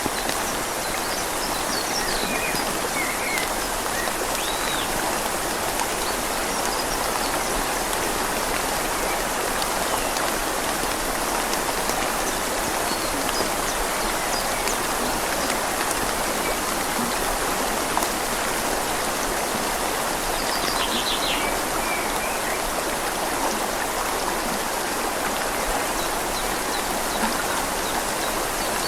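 Steady rain falling on leaves while a river flows, an even hiss of water. A bird chirps a few times, near the start and about two-thirds of the way through.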